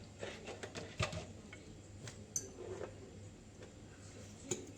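Scattered light clicks and taps of kitchenware, with one sharper knock about a second in.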